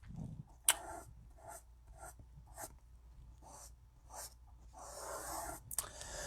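Faint short scratching strokes, roughly two a second, with a sharp click about 0.7 s in and a longer, softer rubbing noise about five seconds in.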